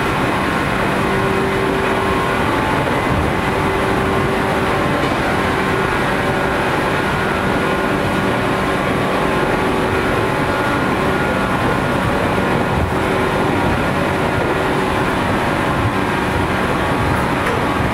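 Onboard running sound of a JR 413 series electric multiple unit under way: a steady rumble of wheels on rail with a faint hum running through it.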